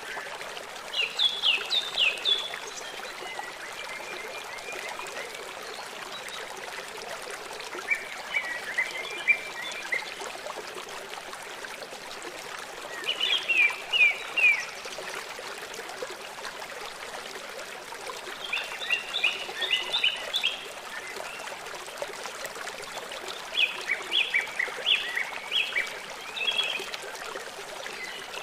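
A small songbird sings a short phrase of quick, high chirping notes again and again, about every five seconds, over a steady rush of running water.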